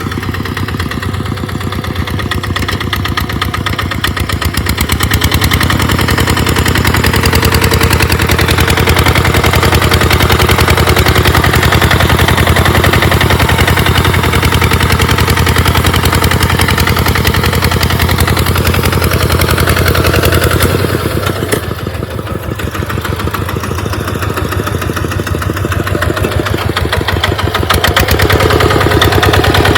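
Tractor engine running steadily as it plows through sand, its beat fast and even. It gets louder about five seconds in, eases off about twenty-one seconds in, then picks up again near the end.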